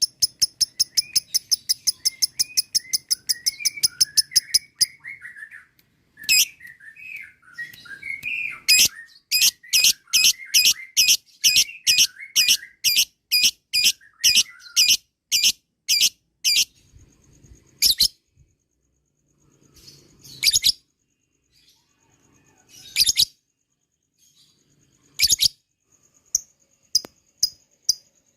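Lovebird 'ngekek' calling: long runs of sharp, high, evenly repeated notes with softer chirps beneath. The runs break off into pauses with a few single notes before another run starts near the end.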